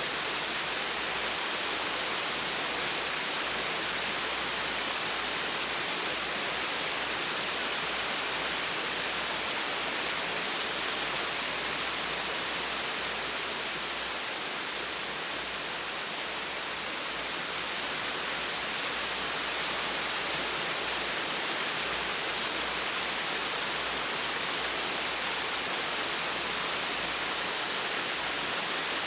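Gentle waterfall: water falling and splashing in a steady, even hiss, easing slightly about halfway through.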